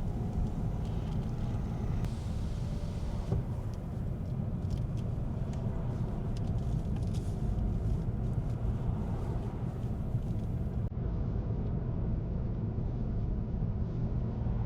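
Car driving at steady road speed: a constant low rumble of tyre and engine noise.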